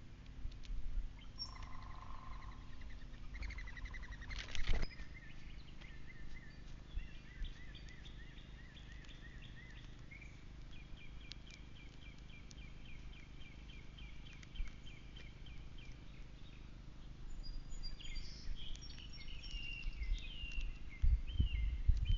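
Small birds calling, with long runs of rapidly repeated high notes and then more varied calls near the end. A low rumble rises near the end.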